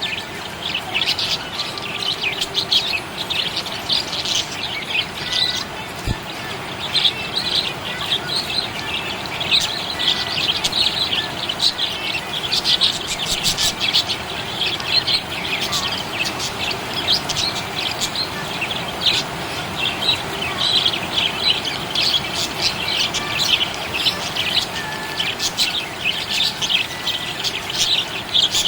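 Budgie chirping and chattering without a break in a quick run of short, high chirps.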